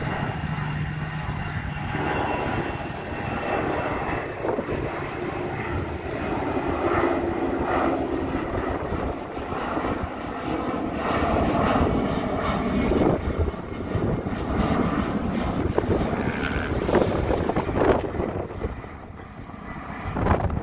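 Boeing 757-222 freighter's twin Pratt & Whitney PW2000-series turbofans at takeoff power: a loud, rough jet rumble that swells and wavers, then drops away briefly near the end.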